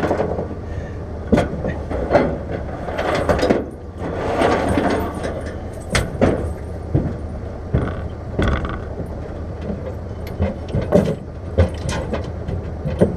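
A vehicle engine running steadily under repeated metal knocks, clanks and rattles, with a rougher, noisier stretch a few seconds in.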